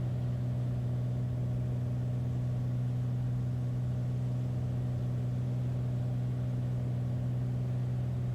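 Beechcraft Bonanza A36's engine and propeller droning steadily at pattern power during the approach, as heard in the cockpit: a constant low hum with no change in pitch.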